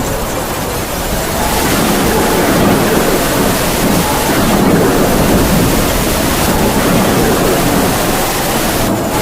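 Heavy rain pouring steadily under howling wind, the wind's pitch slowly rising and falling as it gusts.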